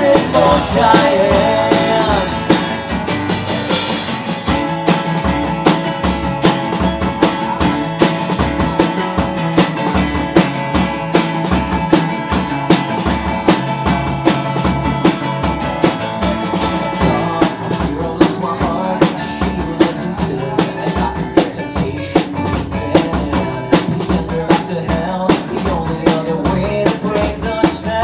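Live rock band playing an instrumental stretch of a song: drum kit keeping a steady beat under bass and two guitars holding sustained notes.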